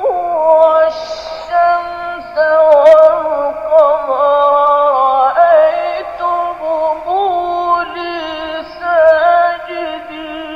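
A high solo voice singing long, wavering, ornamented notes, one line at a time, with loudness swelling and falling over each phrase.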